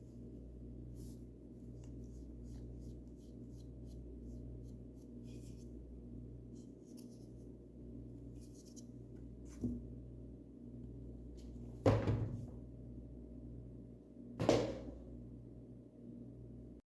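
Paintbrush stroking paint onto a bird house: faint, light scratchy strokes over a steady low hum. Near the end come two louder knocks a couple of seconds apart, each with a short ring.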